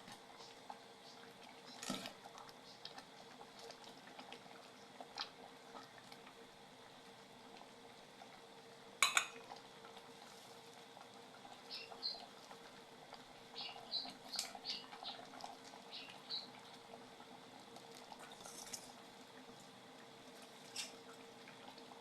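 Sparse faint clinks and knocks of utensils against a cooking pot of simmering curry, the loudest a sharp clink about nine seconds in. Short high chirps come in a cluster in the middle, over a steady low hum.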